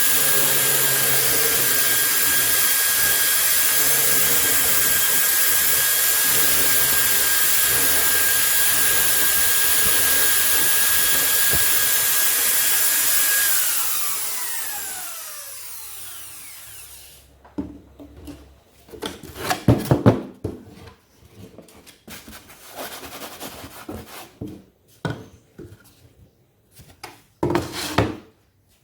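Electric drill motor running steadily at speed with a high whine, then switched off about 13 seconds in, its whine falling as it spins down over a few seconds. Irregular knocks and clatter of tool and wood being handled follow.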